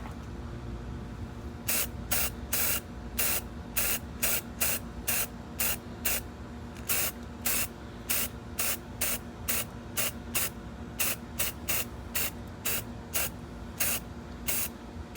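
Aerosol can of rubberized undercoating spraying in quick short puffs, about two to three a second, starting a little under two seconds in, as it is dabbed onto defects in a worn rubber sole.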